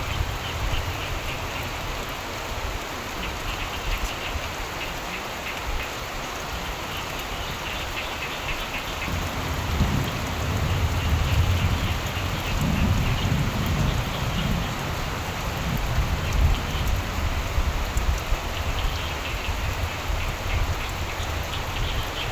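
Steady rain falling, with a low roll of thunder rumbling through the middle. Frogs call in pulsing bursts over the rain.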